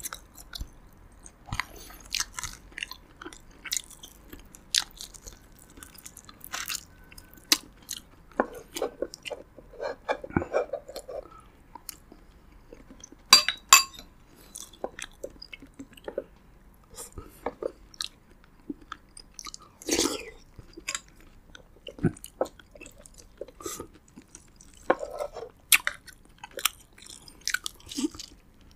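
Close-miked chewing of roasted pigeon and rice: irregular wet mouth clicks and crisp crunches, with a few louder crunches now and then.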